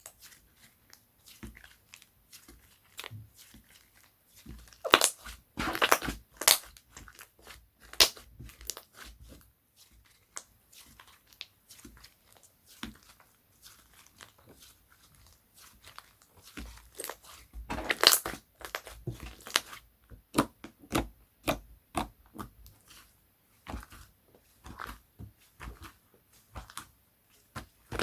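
Slime being squeezed, poked and stretched by hand, giving irregular sharp clicks and crackling pops, with two louder flurries about five and eighteen seconds in.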